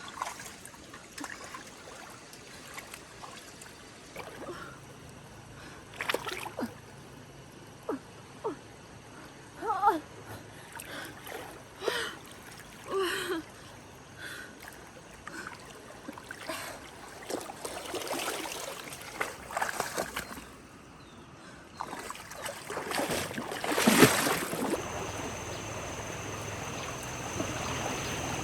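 Floodwater splashing and sloshing in short, irregular bursts, growing busier and louder later on, with the loudest splash near the end.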